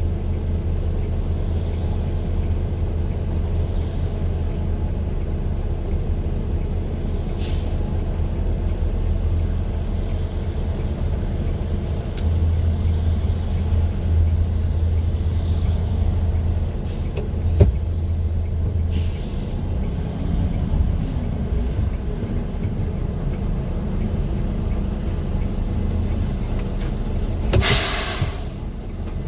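A road vehicle's engine running with a steady low drone, as heard on board, with a few short hisses, the longest near the end, and a sharp click about two-thirds of the way through.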